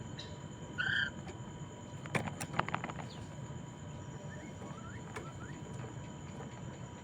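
Poksay Mandarin laughingthrush calling: one short clear note just under a second in, then a quick run of sharp clicking, rattling notes about two seconds in, and a few faint chirps after, over a steady faint background hum.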